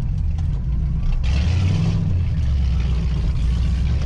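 1940 Ford Tudor's flathead V8 pulling the car along the road, heard from inside the cabin as a steady low rumble. A rushing hiss of wind and road noise joins about a second in.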